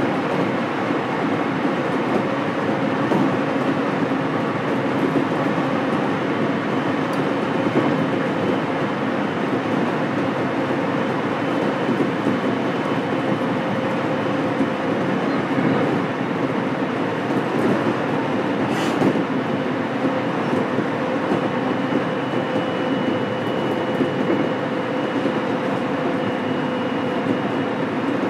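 Inside a JR Kyushu 813 series electric multiple unit car (KuMoHa 813-302) running at speed: steady wheel-and-rail rumble with humming tones under it, and one sharp click about two-thirds of the way through.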